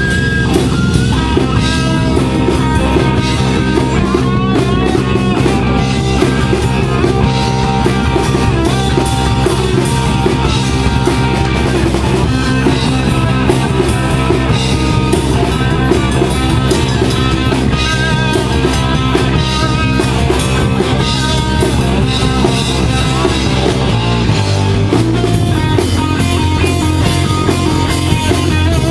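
Rock band playing: electric guitar, bass and drum kit, loud and steady, with a change in the bass line about 24 seconds in.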